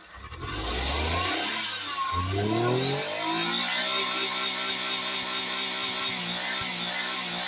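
Small car engine revved up twice with rising pitch, then held at a steady raised speed.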